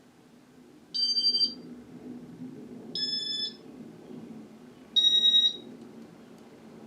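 Three short electronic beeps about two seconds apart, each about half a second long and each at a slightly different pitch, over a steady low motor hum.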